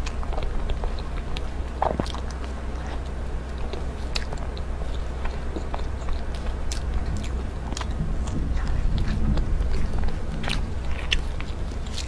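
Close-miked chewing and biting of soft layered matcha and chocolate mousse cake, with many small sharp mouth clicks scattered throughout. A steady low hum sits underneath.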